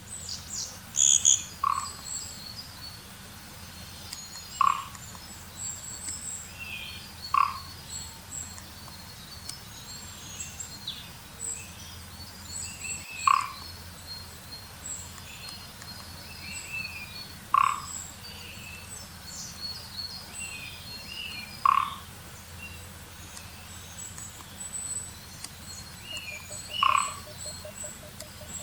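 Mixed flock of long-tailed tits and Japanese pygmy woodpecker calling. Short harsh, creaky calls come seven times, a few seconds apart, over continual thin, high-pitched twittering.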